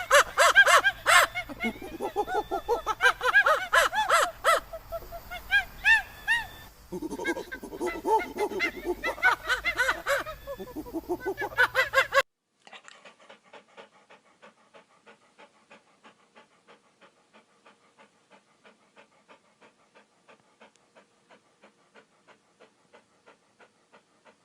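Loud animal calls, many of them rising and falling in pitch, which stop abruptly about halfway through. They give way to a faint, even run of short breath-like pulses, about two or three a second, like an animal panting.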